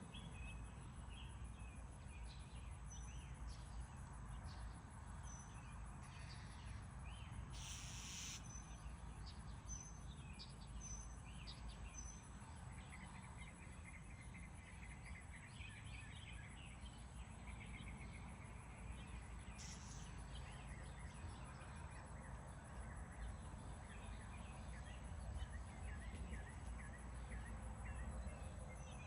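Faint outdoor ambience: scattered short bird chirps over a steady high insect drone and a low rumble, with a brief hiss about eight seconds in and another near twenty seconds.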